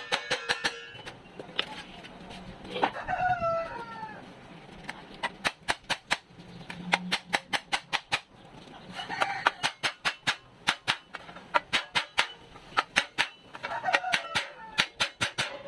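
Runs of sharp knocks, about three a second, are the loudest sound. A rooster crows three times over them.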